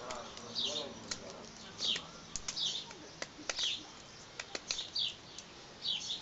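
A small songbird calling over and over: short high chirps that fall in pitch, about one or two a second. Scattered faint clicks come from a piece of pine bark being carved by hand into a toy wheel.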